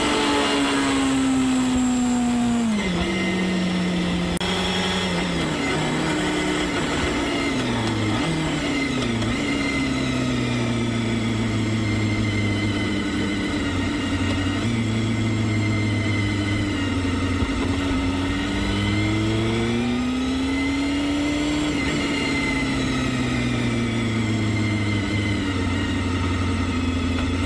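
Honda Hornet 250's high-revving 249 cc inline-four engine under way. The revs fall at the start, then rise and drop several times through a run of gear changes. It holds a fairly steady cruise, then rises and falls again, and climbs once more near the end.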